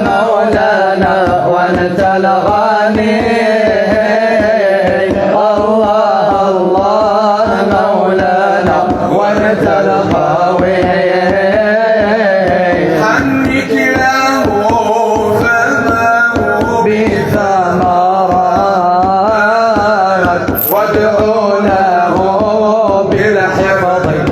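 Devotional Arabic song (nasheed): a wavering, ornamented sung melody over a fast, steady drum beat.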